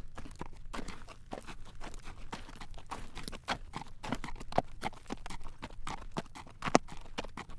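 Horse's hooves clip-clopping on a road as it pulls a carriage at a walk: a run of sharp clacks, several a second.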